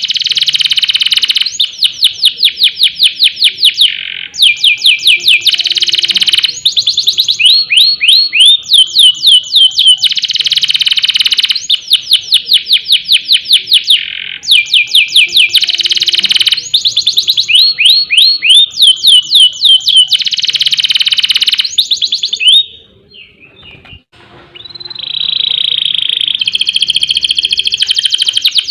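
Domestic canary singing loudly: fast runs of repeated falling whistled notes alternating with dense rolling trills. The song drops out briefly about 23 seconds in, then picks up again.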